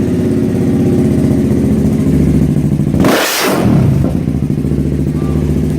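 Honda CBR motorcycle engine with an aftermarket slip-on exhaust idling loudly just after start-up. About three seconds in there is a brief rev with a rush of noise, and the engine settles back to idle.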